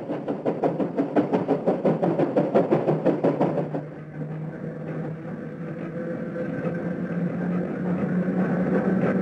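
Steam locomotive working past with a freight train, its exhaust chuffing rapidly at about four to five beats a second; about four seconds in this gives way to an NS Mat '24 'Blokkendoos' electric train approaching, its traction motor hum rising slowly in pitch and growing louder.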